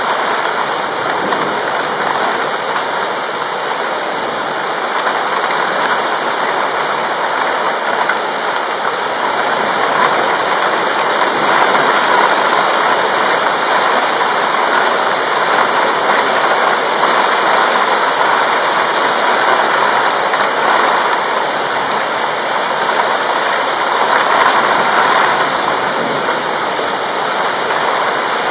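Heavy rain pouring steadily, a dense even hiss that swells slightly after about ten seconds.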